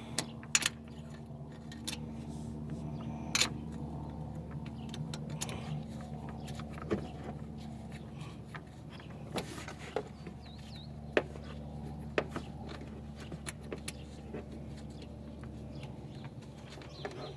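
Hand tools clicking and clinking on metal at irregular intervals while a long nut is worked loose, over a steady low hum.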